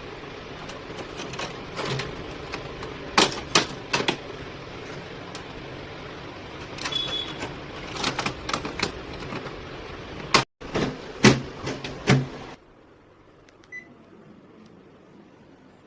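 Scattered sharp clicks and knocks over a steady hiss; the hiss gives way to a much quieter background about three-quarters of the way in.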